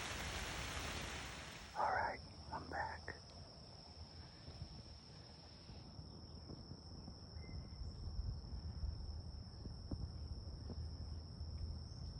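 Rain hiss that cuts off about a second and a half in, followed by a thin, steady high-pitched tone. Three short louder sounds come between about two and three seconds in.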